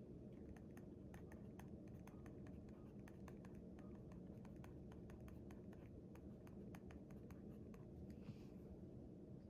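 Faint writing on paper: a pen or pencil making many quick irregular taps and short scratching strokes, with one longer scratch near the end, over a steady low hum.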